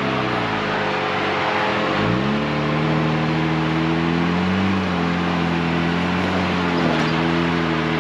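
Off-road vehicle engine revving under load: the pitch drops low about two seconds in, climbs back, then holds with small swells in revs.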